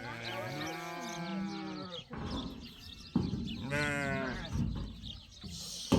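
Sheep bleating: two overlapping long bleats in the first two seconds, then another about four seconds in. A sharp knock sounds just after three seconds.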